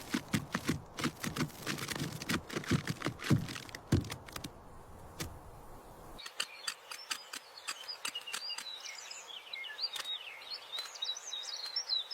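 Irregular clicks and knocks for the first few seconds. After a sudden change about six seconds in, a bird chirps rapidly in short, varied high notes, with a few faint ticks.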